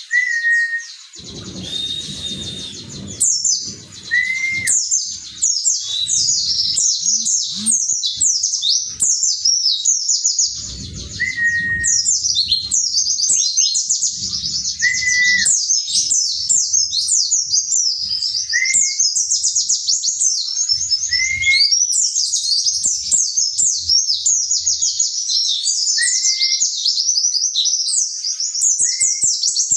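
White-eye (pleci) singing a long, fast, high-pitched twittering song without a break, with a lower short rising whistle repeating every few seconds. A few bursts of low rustling noise come in near the start, around the middle and about two thirds of the way in.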